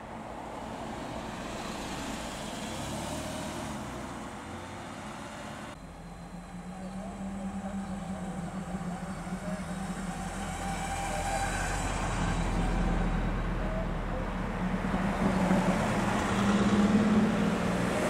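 Porsche sports cars, a 997-generation 911 and a 944 among them, driving slowly past one after another at low revs. There is an abrupt change about six seconds in, then a steady engine note that grows louder toward the end as the next car comes closer.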